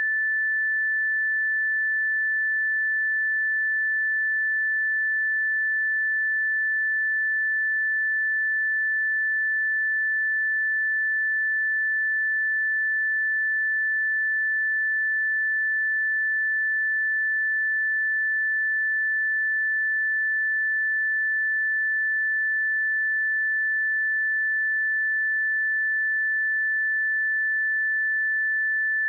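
A pure 1755 Hz sine test tone, held steady at one pitch and level.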